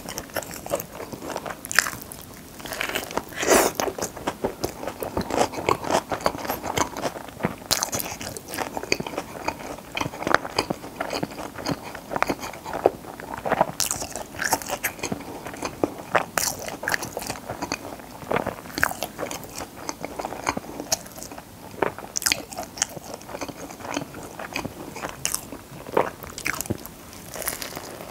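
Close-miked biting and chewing of a crispy fried chicken burger, with frequent irregular crunches and crackles of the fried breading.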